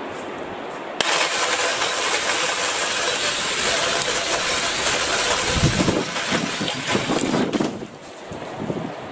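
BLACK+DECKER 18V cordless saw switched on about a second in and running at full speed with a steady hiss, stopping shortly before the end.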